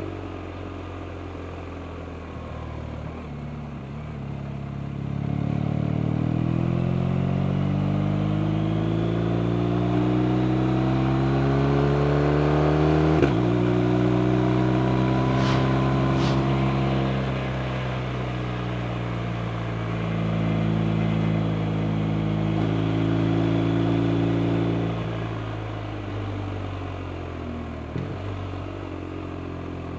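BMW R 1250 RT's 1254 cc boxer twin accelerating: the engine note climbs, drops sharply at a gear change near the middle, then holds and rises again before easing off near the end as the throttle closes. Two brief high-pitched sounds come a little after the gear change.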